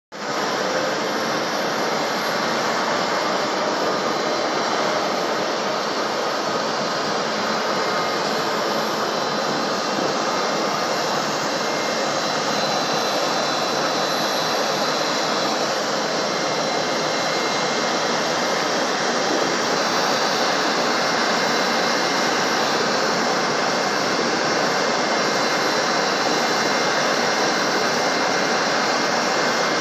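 Boeing 787-9's Rolls-Royce Trent 1000 jet engine running: a loud, steady rush with a thin high whine over it, growing slightly louder about two-thirds of the way through.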